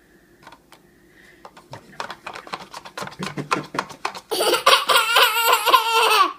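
Young child laughing in quick bursts that build to a loud, high-pitched squealing laugh about four seconds in.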